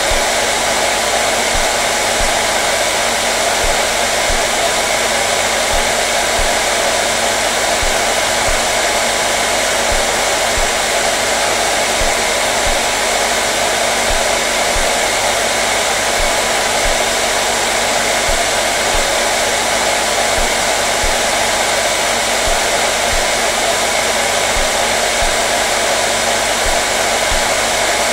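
Hair dryer running steadily: an even, continuous blowing rush with a faint steady motor hum underneath.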